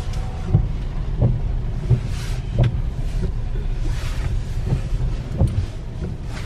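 Car engine running at low speed, heard from inside the cabin as the car creeps forward into a parking space, with occasional light knocks.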